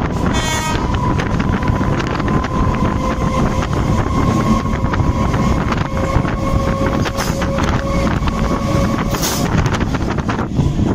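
Suburban electric train running at speed, heard from its open doorway: a steady rumble with a rapid clatter of wheels over the rails, wind buffeting the microphone, and a steady high whine. Another train passes close alongside.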